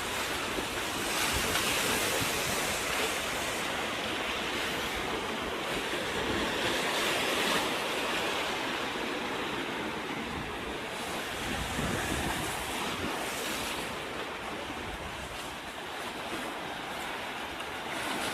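Sea waves washing on the shore, swelling and easing every few seconds, with wind buffeting the microphone.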